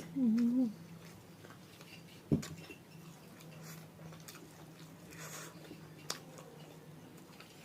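A person eating, quietly chewing with faint crisp ticks, opening with a short hummed 'mmm' and a sharp tap about two seconds in. A steady low electrical hum runs underneath.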